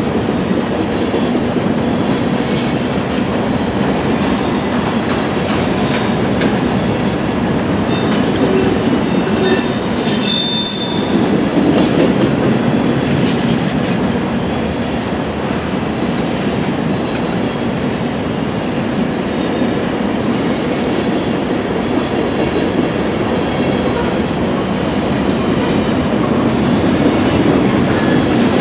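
Freight cars of a long mixed freight train rolling past: a steady rumble of steel wheels on rail. A thin, high wheel squeal rides over it for several seconds in the middle, from about five seconds in to about eleven.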